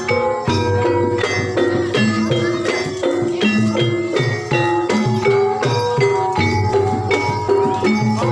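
Banyumasan gamelan-style music: tuned mallet percussion strikes out a repeating melody in a steady pulse over low drum strokes, with a rattling jingle on top.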